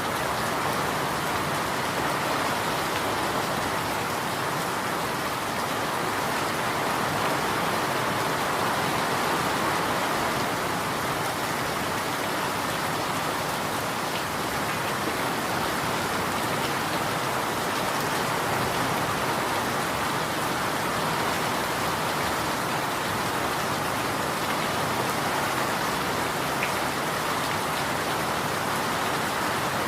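Steady rain falling and pattering on a surface, an even hiss with fine drop ticks.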